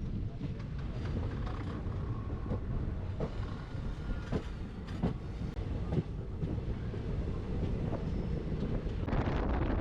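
Train running along the track: a steady low rumble with irregular clacks of the wheels over the rail joints. Near the end a louder rush of wind comes in.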